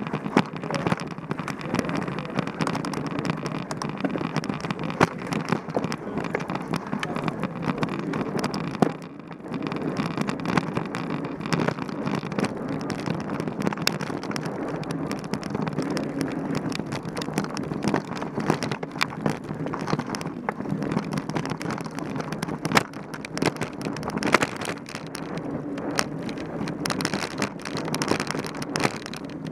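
Mountain bike ridden over a rough dirt trail: steady tyre noise with the bike rattling and clicking constantly over the bumps, easing briefly about nine seconds in.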